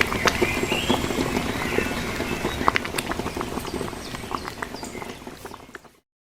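Outdoor ambience: a rustling haze with many scattered small clicks and taps and a few short high chirps, fading out near the end.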